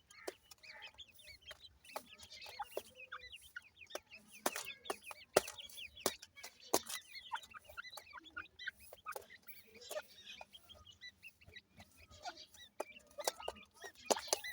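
A group of ringneck pheasant chicks peeping constantly with many short, high chirps, mixed with frequent sharp clicks and taps.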